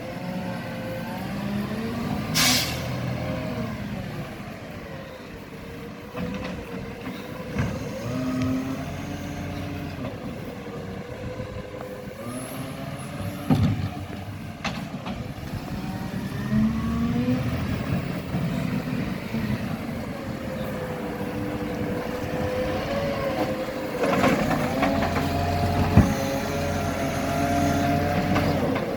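Garbage truck's diesel engine running, its pitch rising and falling as it works. There is a short burst of air hiss about two and a half seconds in, and a few sharp knocks.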